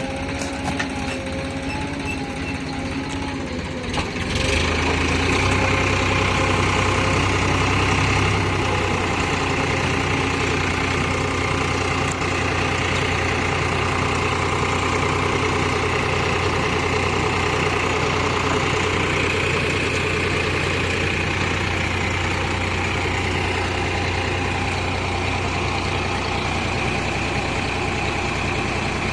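Diesel engine of a JCB 3DX backhoe loader running. About four seconds in it revs up and gets louder, then holds at a steady, higher working speed.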